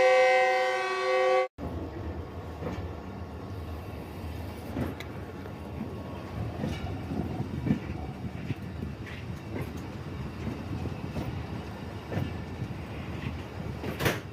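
A diesel locomotive's air horn blows a loud, steady chord and cuts off abruptly about a second and a half in. A train's low running rumble follows, with scattered clacks of wheels over the rails and one sharp knock near the end.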